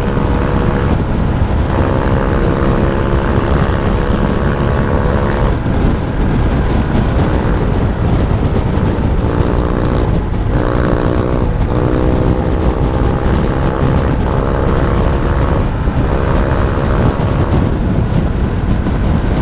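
Motorcycle engine running under way, its pitch climbing through the revs and dropping back several times as it is ridden through the gears, over steady heavy wind rumble on the helmet microphone.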